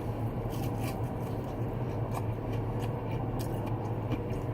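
Eating and handling fried chicken tenders: a few short, crisp clicks and rustles over a steady low hum.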